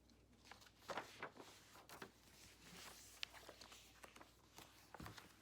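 Faint ballpoint pen scratching on paper in short strokes, with a few small clicks.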